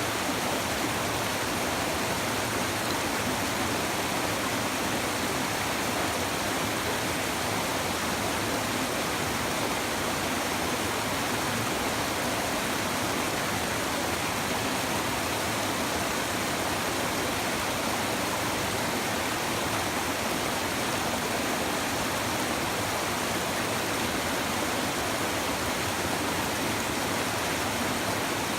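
Shallow river babbling steadily, a continuous even rush of flowing water.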